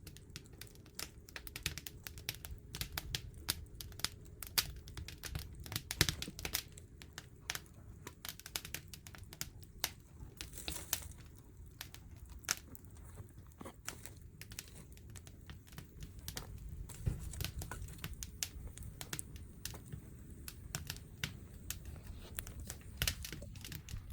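Wood fire crackling, with dense sharp pops and snaps over a steady low rumble of the burning wood, and a brief hiss about ten seconds in.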